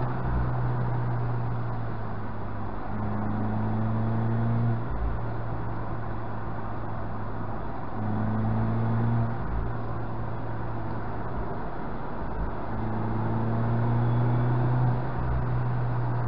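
Mazda MX-5's four-cylinder engine running steadily while climbing a winding road, with tyre and wind noise. It grows louder three times under acceleration and eases off each time.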